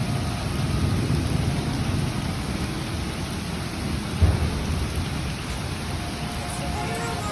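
Summer thunderstorm: steady rain with a low rumble of thunder, and one short, loud low boom about four seconds in.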